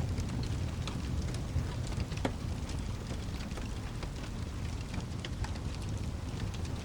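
Steady rain with a continuous low rumble underneath and scattered sharp ticks and crackles.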